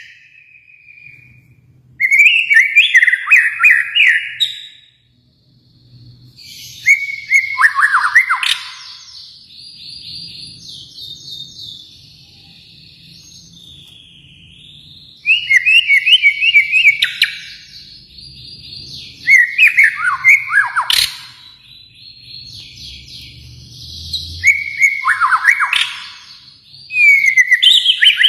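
White-rumped shama (murai batu) singing: loud, fast whistled phrases with rapid slides in pitch, about two seconds each and repeated every few seconds, with softer high twittering in between.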